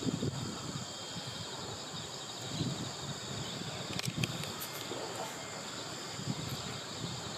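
Steady chorus of autumn insects in the grass, several high continuous trills overlapping. A few faint low rustles come through, and a couple of sharp clicks about four seconds in.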